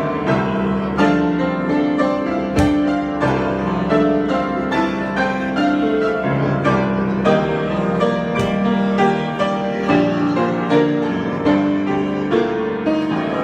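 Solo piano improvisation: a steady stream of struck notes over held chords, a new note or chord about every half second to second.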